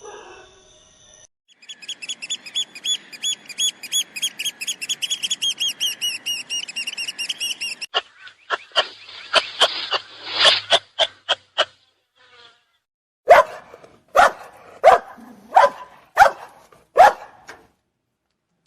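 A rapid series of high chirps, several a second, runs for about six seconds. A few sharp clicks and short calls follow, then a dog barks about six times at an even pace near the end.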